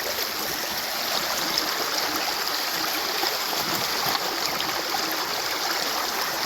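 Stream water rushing and gurgling, a steady spread-out sound of a river flowing over rocks.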